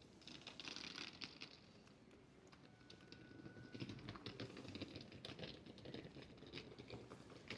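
Quiet street ambience with faint, irregular clicking footsteps, a brief thin high tone about three seconds in, and a low rumble from about four seconds on.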